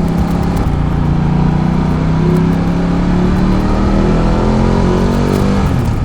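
Ducati Multistrada 1200's V-twin engine pulling under acceleration while riding, its pitch rising slowly, then dipping briefly near the end.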